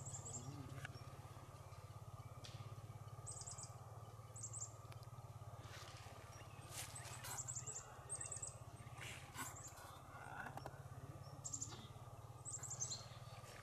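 A small bird chirping over and over, in short quick runs of three to five very high notes every second or two. Under it are a few faint knocks and a steady low hum.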